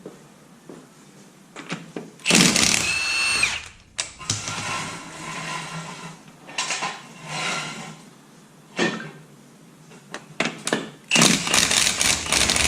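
Impact wrench loosening and spinning off lug nuts in two loud bursts, one about two seconds in and one near the end. Its motor whine drops in pitch as each burst stops, with quieter clicks and handling noise between.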